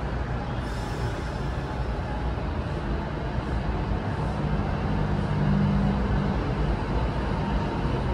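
Amtrak passenger train pulling out of the station, its coaches rolling past the platform with a steady rumble of wheels on rail. A low hum swells for a couple of seconds around the middle.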